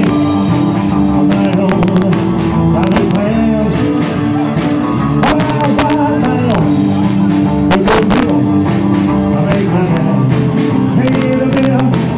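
Live rock and roll band playing, with electric guitar to the fore over bass and drums.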